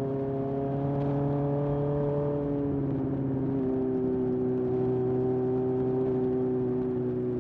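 1981 Honda CB750F's air-cooled inline-four running through a period Yoshimura exhaust at a steady cruise. Its note eases slightly lower in pitch about three seconds in, then holds steady.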